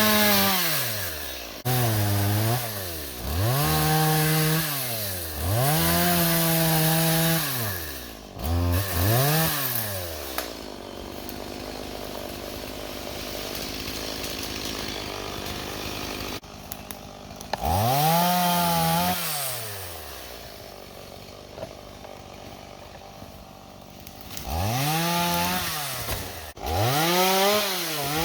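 Two-stroke gas chainsaw revved again and again, its pitch climbing and dropping in quick arcs, with quieter steady running in between.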